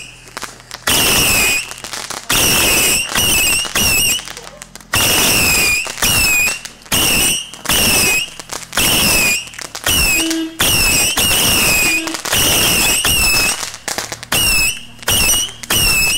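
Whistling fireworks going off one after another, roughly one a second: each is a loud, shrill whistle lasting under a second, its pitch dipping and rising again.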